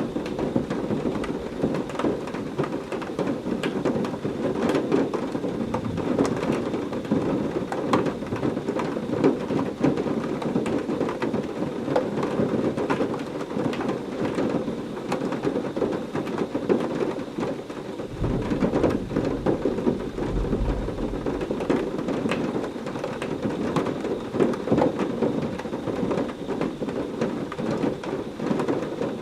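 Heavy rain falling steadily, thick with the ticks of individual drops. A low roll of thunder rumbles under it about two-thirds of the way through.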